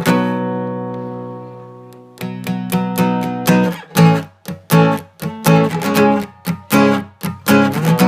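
Guitar music: a strummed chord rings out and fades for about two seconds, then rhythmic strumming starts again.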